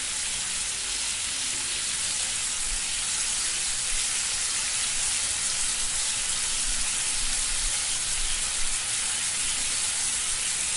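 Steady sizzling of food frying in a hot pan, an even hiss that cuts off suddenly just after the end.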